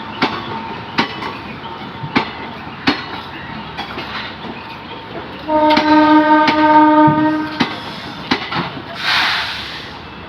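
Departing passenger train behind a WAG-9 electric locomotive: wheels clicking over rail joints at uneven intervals, with a horn blast of about two seconds just past the middle. A brief hiss follows near the end.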